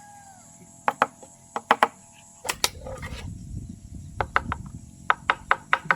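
A series of sharp knocks and clicks, irregular at first, then five or six in quick succession near the end, over a steady high chirping of insects.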